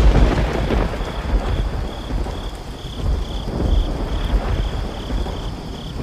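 Thunderstorm: steady heavy rain with low rolling thunder that swells and eases. A faint high-pitched pulsing tone repeats about twice a second from about a second in.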